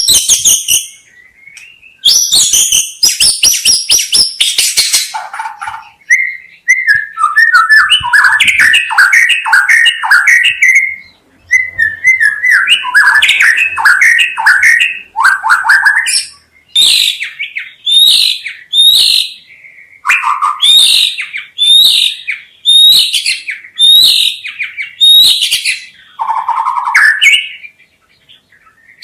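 White-rumped shama (murai batu) singing a loud, varied song. It opens with a burst of dense high chattering, moves into runs of falling trilled notes, then gives a string of repeated high whistled phrases about one a second.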